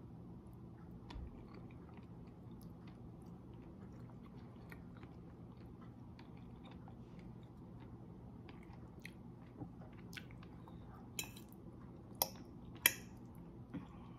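A person chewing a mouthful of spaghetti carbonara, with soft wet mouth clicks and a few sharper clicks near the end. A faint steady low hum lies underneath.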